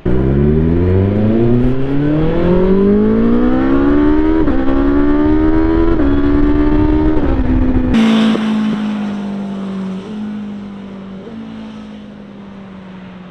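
BMW S1000XR's inline-four with an Akrapovič exhaust accelerating hard, its pitch climbing and dipping at each upshift. It passes about eight seconds in with a sudden drop in pitch, then fades as it pulls away, shifting up twice more.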